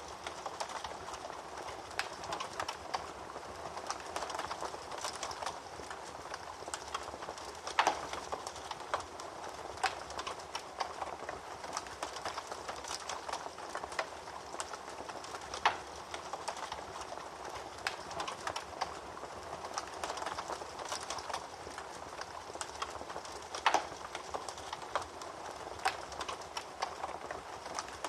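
Wood fire crackling in a fireplace: a steady bed of small crackles, with a louder pop about every eight seconds.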